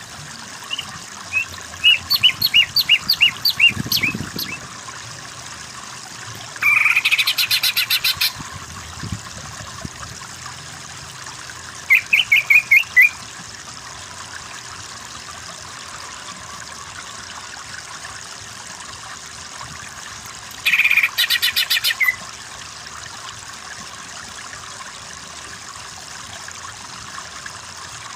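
Cucak ijo (green leafbird) singing in separate bursts over a steady background hiss. First comes a run of quick high notes, then a dense rapid trill, a short run of notes, and a second dense trill about 14 seconds after the first.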